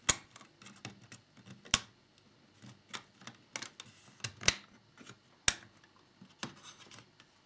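Small plastic model parts and tools clicking and tapping as they are handled and set down on a work surface, in irregular sharp clicks, the loudest about two, four and a half and five and a half seconds in.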